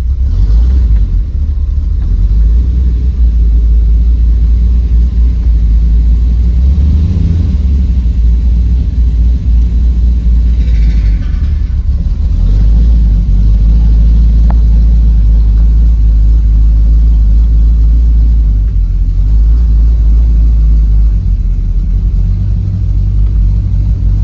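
A 1929 Ford Model A pickup hot rod's engine running steadily at idle, heard from inside the cab as a loud, deep rumble.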